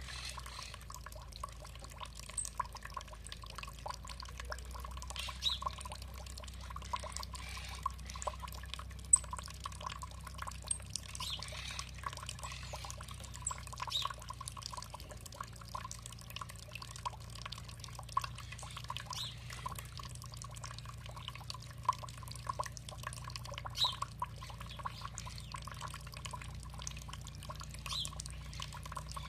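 Water dripping and trickling steadily, with many small drops falling and a few brief high chirps scattered through.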